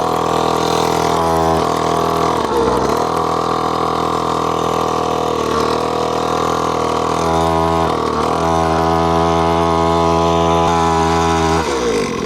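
Mini dirt bike's small engine running slow and steady near idle during a slow-speed crawl. Its pitch dips and recovers briefly several times as the throttle is feathered.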